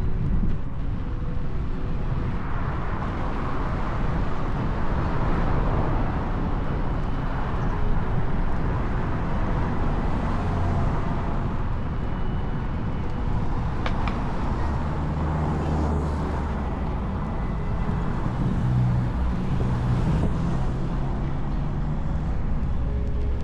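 Wind rushing over the camera microphone with road and traffic noise while riding an electric unicycle along a street: a steady low rumble and hiss, with a passing vehicle's engine hum about two-thirds of the way through.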